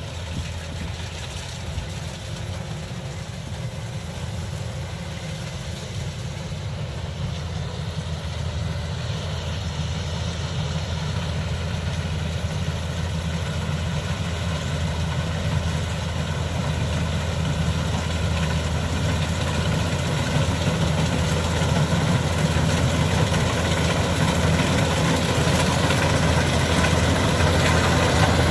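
Kubota DC-105X combine harvester's diesel engine and machinery running steadily, growing gradually louder.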